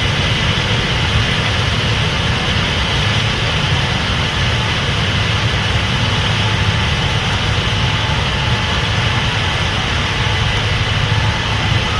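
Case IH 8250 Axial-Flow combine running steadily while harvesting corn: a deep, constant engine drone under a steady hiss, with faint steady whines above it.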